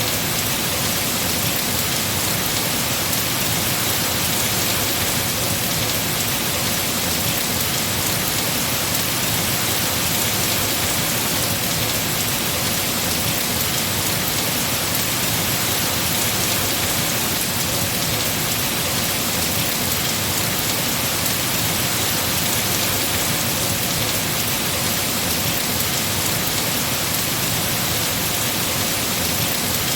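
Heavy rain falling on trees and leaves, a steady, even hiss of countless drops.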